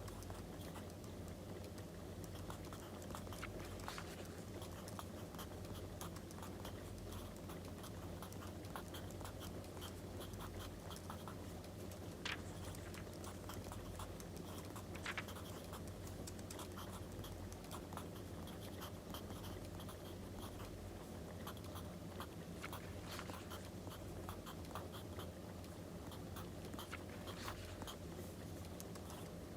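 Wood fire crackling: a steady stream of small crackles and sharp pops, a couple of louder pops about halfway through, over a steady low hum.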